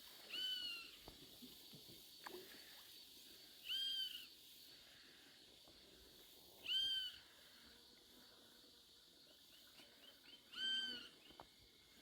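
A bird calling four times, a short, arched, down-slurred note about every three seconds, over a steady high-pitched insect drone.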